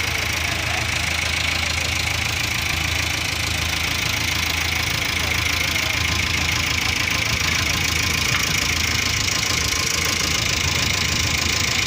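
A large engine running steadily at an even speed, with no change in pitch.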